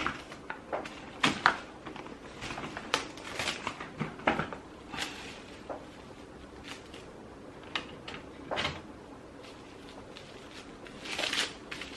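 Scattered rustles and small clicks of plastic being handled: cling wrap crinkling around an inkjet ink cartridge.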